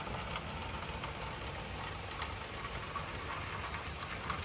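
Steady rain with scattered drops tapping a surface close by, over a low steady rumble.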